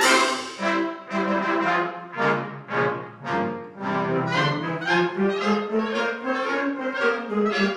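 Community wind band playing a lively piece, with brass prominent: trombones, trumpets and horns sound short accented chords over sustained low notes.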